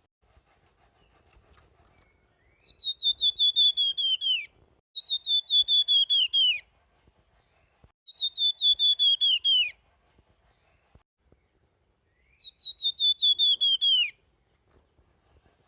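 Flamboyan bird singing its fluting song: four phrases of about a second and a half each, every one a rapid run of clear whistled notes that drops lower in pitch at the end.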